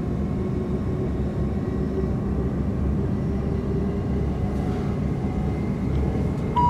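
Interior running noise of a Class 387/1 Electrostar electric train at speed: a steady low rumble with faint steady tones over it. Right at the end, a chime tone begins.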